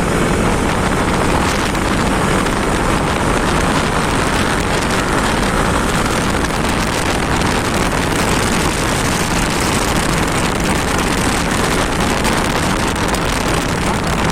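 Superbike riding at speed: a steady rush of wind on the microphone over the engine's low drone, with no change in pace.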